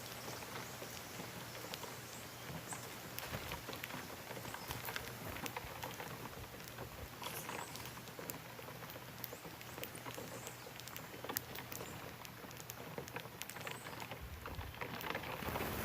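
Small birds pecking at corn grains: an irregular patter of light ticks and taps, over a faint steady low hum.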